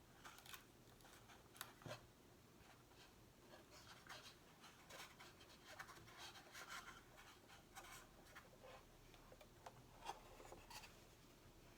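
Stickers being handled and pressed onto a box, heard up close: faint, irregular rustling, scratching and light taps.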